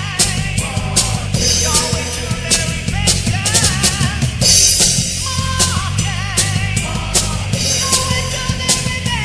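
Heavy metal song played by a full band. A busy drum kit of bass drum, snare and frequent cymbal crashes drives the beat under a high melodic line that bends and wavers.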